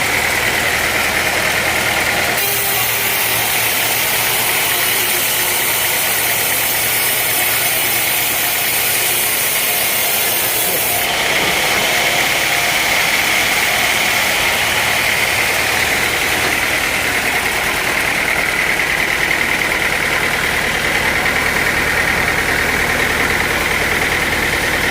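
Engine-driven sawmill machinery running steadily with a constant hum. A loud, harsh hiss joins in about two seconds in and stops about eleven seconds in.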